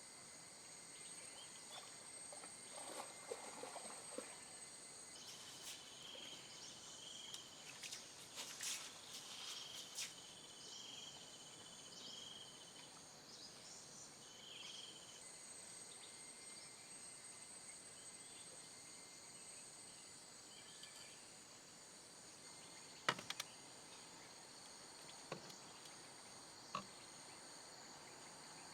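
Faint night insect chorus: several steady high-pitched trills, with a run of short repeated chirps in the first half. A few sharp clicks come in the second half, one louder than the rest.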